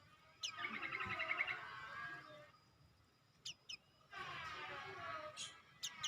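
A songbird singing: a long phrase of fast, rapidly repeated warbling notes, two short sharp chirps, then a second warbling phrase.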